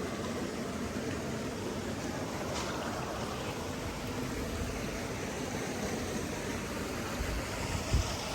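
Flowing water rushing steadily, with a brief low thump near the end.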